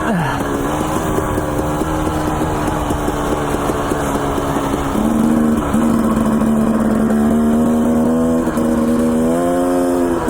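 Dirt bike engine running under steady throttle. It holds an even note that drops slightly about halfway through and climbs again near the end.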